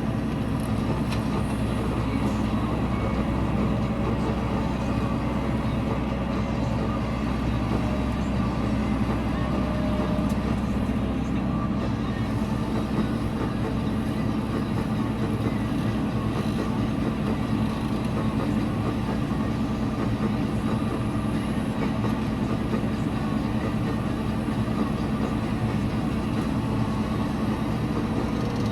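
Engine running steadily, a constant low drone that does not change.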